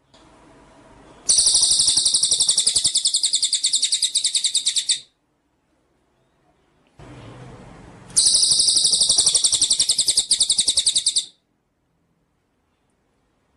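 Songbird song: two repeated bouts, each starting with a softer low rustling lead-in and breaking into a loud, very rapid, high-pitched trill that lasts about four seconds, then stopping abruptly.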